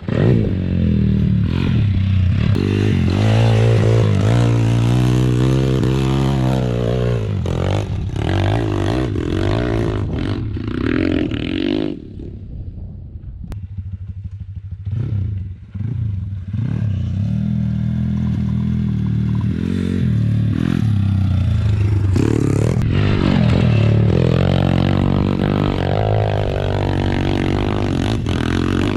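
Single-cylinder four-stroke pit bike engine revving hard under load on a hill climb, its pitch rising and falling with the throttle. It drops back for a couple of seconds about twelve seconds in, then revs up again.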